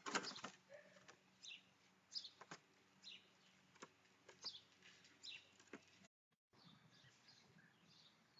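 A small bird chirping over and over in short, high, falling notes, roughly one to two a second, with a few sharp clicks among them, the loudest at the very start.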